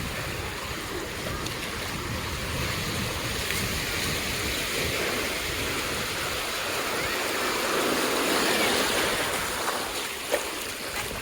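Sea surf on a beach: waves breaking and washing up the sand as a steady rush that swells to its loudest about eight seconds in. A single sharp click near the end.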